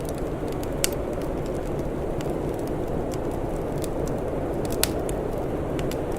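Wood fire crackling with scattered sharp pops, the two loudest about a second in and near five seconds, over a steady low rumble.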